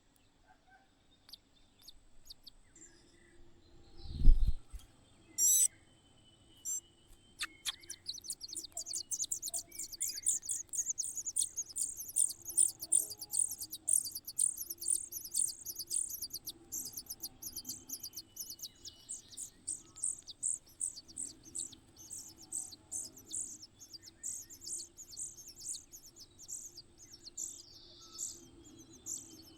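Nestling birds begging: a long run of quick, high-pitched cheeps, several a second, that starts a few seconds in and keeps going. Before it, a single dull thump and a sharp click.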